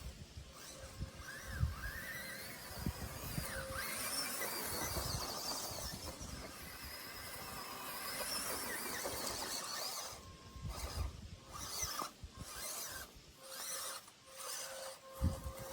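ShenFortune MN-82 1/12-scale RC rock crawler's small electric motor and gears whining as it drives, the pitch rising and falling with the throttle, with scattered knocks from the truck moving over rough ground.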